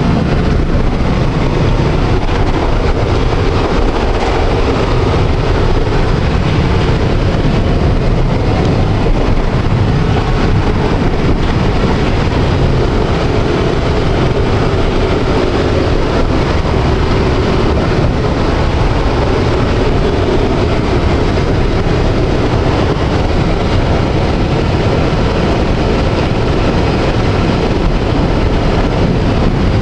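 Electric tram running along its rails, a steady noise of wheels and motors.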